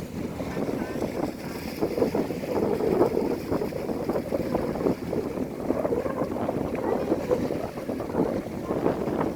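A fishing boat's engine running as the boat heads out to sea, mixed with gusts of wind buffeting the microphone.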